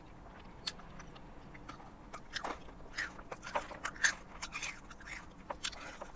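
A person chewing a mouthful of salad topped with crunchy chili cheese Fritos: a run of short, irregular crunches.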